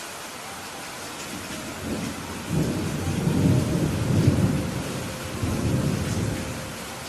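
Steady rain hissing, with a roll of thunder that rumbles up about two seconds in, peaks in the middle and dies away near the end.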